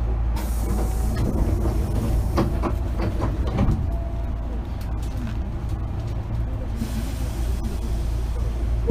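Hankyu 8000 series commuter train car heard from inside: a steady low hum, with a hiss that starts about half a second in and cuts off near seven seconds, and a few sharp clicks between two and four seconds in.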